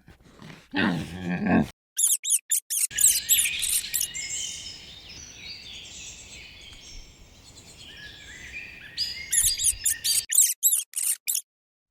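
Small birds chirping: quick, high repeated chirps, a denser chirping chorus in the middle and more rapid chirps near the end. A brief lower animal call comes just before the chirping starts.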